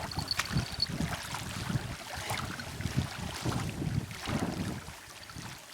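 Small wind-driven waves lapping and slapping at the bank in uneven surges, with wind gusting over the microphone.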